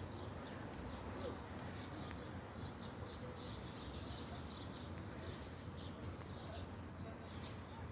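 Small birds chirping in short, repeated high calls, faint over a steady low outdoor rumble.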